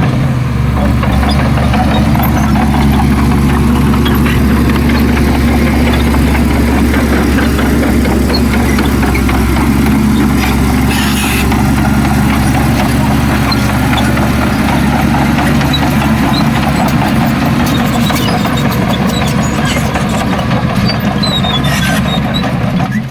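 Heavy diesel engine of earthmoving machinery running steadily at an even pitch, with scattered clanks and rattles over it and a short hiss about halfway through.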